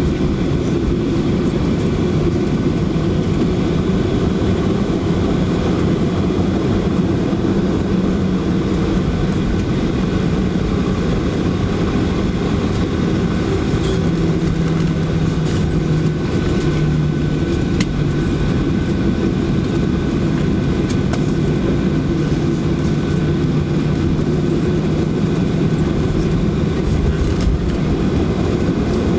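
Boeing 737 cabin noise while taxiing after landing: a steady low rumble with the engines humming at idle. A low hum shifts in pitch about fourteen seconds in.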